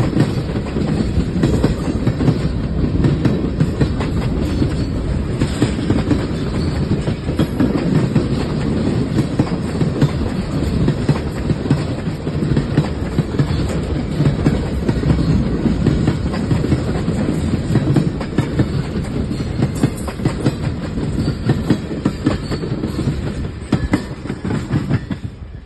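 Freight train cars rolling past at close range: a steady low rumble, with the wheels clicking rhythmically over the rail joints.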